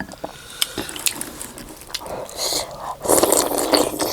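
Someone eating soup close to the microphone: a few small clicks, then two slurps, the second and louder one about three seconds in.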